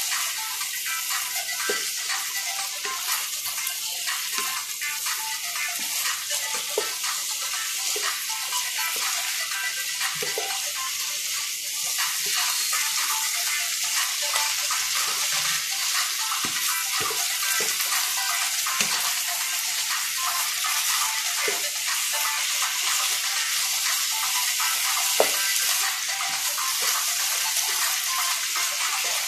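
Bitter melon, tuna and egg sizzling steadily in a hot wok while a wooden spatula stirs and scrapes through them, knocking against the pan now and then.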